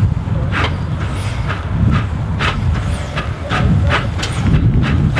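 Narrow-gauge steam train running, a regular beat of sharp strokes at about two a second, quickening slightly, over a continuous low rumble.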